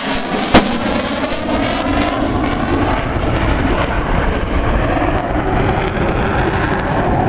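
An aircraft engine passing by, its higher tones fading from about two seconds in. There is one sharp knock about half a second in.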